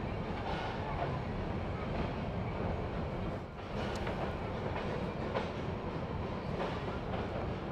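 Narrow-gauge steam train running on its track with a steady low rumble and a few irregular clicks, typical of wheels passing over rail joints.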